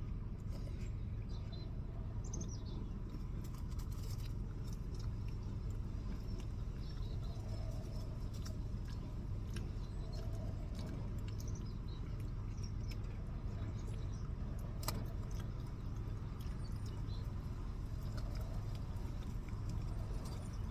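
A steady low hum with scattered small clicks and a few faint high chirps.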